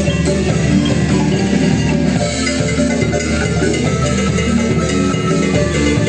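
Marimba band playing an upbeat instrumental dance tune: quick mallet notes on the marimba over percussion and a steady bass.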